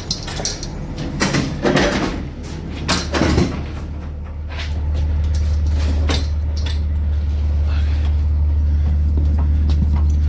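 Knocks and rattles as loaded skids are shifted from one truck into the other, then a steady low motor hum that starts about four seconds in and runs on.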